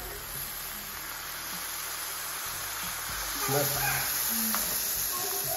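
Onion, garlic and spice masala frying in oil in a kadhai: a steady sizzle now that the added water has boiled off.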